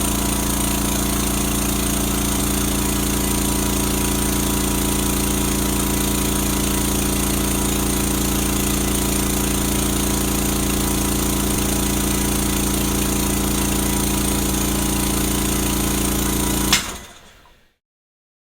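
A power tool or appliance motor running steadily with a fast, even rattling pulse. Near the end it stops with a sharp click and dies away.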